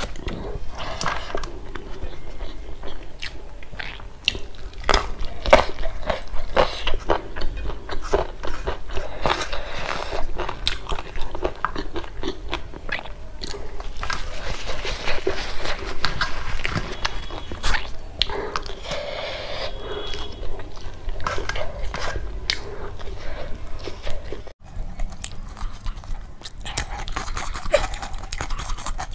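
A person chewing and crunching mouthfuls of rice and crisp fried fritters close to a clip-on microphone, with many small wet mouth clicks and crackles.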